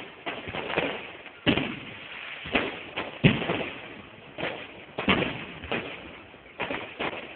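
Fireworks going off: a string of irregularly spaced bangs and cracks, several in quick succession at times, each trailing off briefly.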